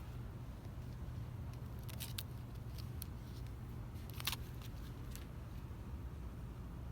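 Shop interior ambience: a steady low hum with a few scattered light clicks and rattles, the sharpest about four seconds in.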